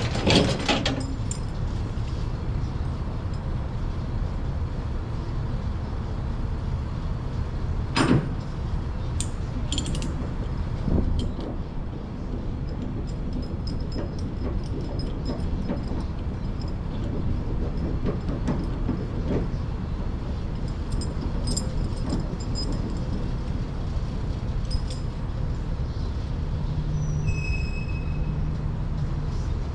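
Semi-truck diesel engine running steadily with a low rumble, with a few sharp knocks or clicks about 8 and 10 seconds in.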